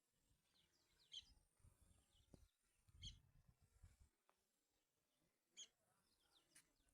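Faint birds chirping: a few short, high chirps spaced a second or two apart over a quiet background.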